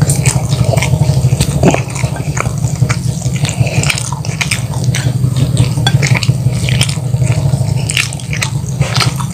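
Close-miked chewing and biting of crispy flour-battered fried chicken and rice, eaten by hand: many short crunchy, wet mouth clicks, over a steady low hum.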